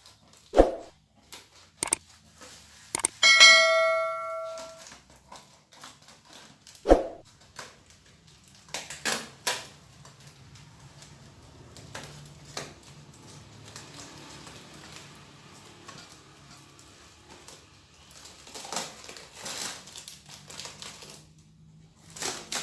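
A single bell-like ding that rings for about a second and a half, between sharp knocks, followed by scattered clicks and rustling.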